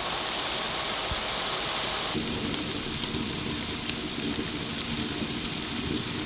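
Snow pattering steadily on tent fabric, an even hiss with a few faint clicks; about two seconds in a lower rumble joins it.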